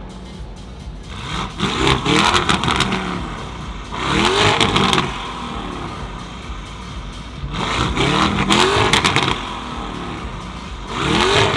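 A car engine revved four times, a few seconds apart, each rev climbing and dropping back to idle.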